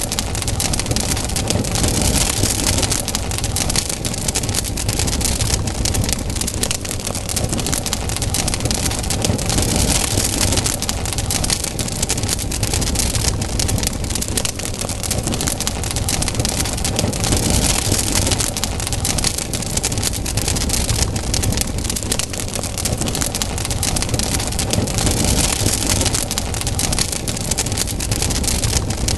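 Campfire burning with dense, continuous crackling and popping over a low rumble; a hiss swells and fades about every seven or eight seconds.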